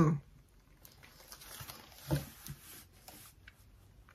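A person quietly chewing a soft chocolate-glazed candy with a lemon filling, mouth closed, with a short 'mm' hum about two seconds in.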